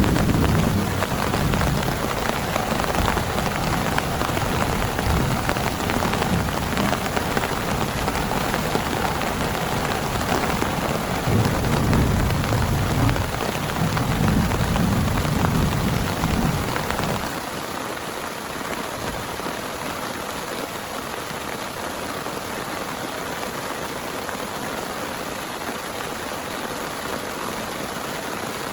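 Heavy rain pouring steadily, with long rolls of thunder rumbling under it. The rumbling stops abruptly about seventeen seconds in, leaving only the rain.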